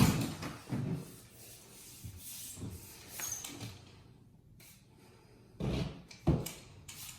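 Scattered rubbing and knocking noises: a sharp scrape right at the start, another about a second in, then quieter handling and two louder knocks near the end.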